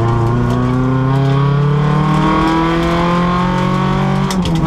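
Renault Clio rally car's engine, heard from inside the cabin, pulling hard with its note climbing steadily for about four seconds. Near the end it shifts up: the pitch drops suddenly, with a brief clatter of clicks.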